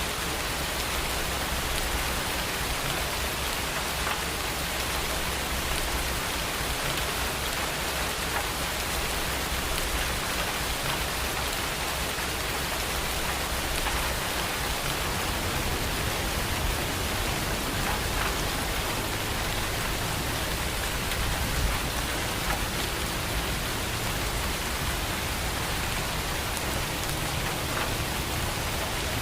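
Steady rain, an even hiss of falling drops with a few sharper drop ticks here and there.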